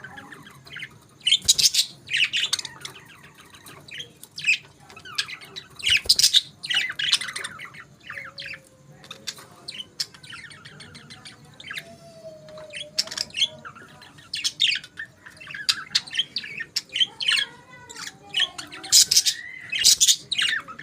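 Budgerigars chirping and chattering in many short, sharp calls mixed with squawks, with a few warbling calls between them.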